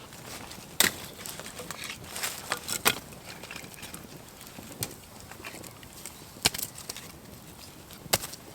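Irregular sharp cracks and knocks of firewood, a second or two apart, as a campfire is being built back up.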